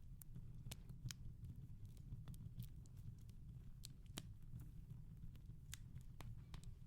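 Wood fire crackling in a fireplace, faint: irregular sharp crackles and pops, two louder ones about a second in and about four seconds in, over a low steady rumble.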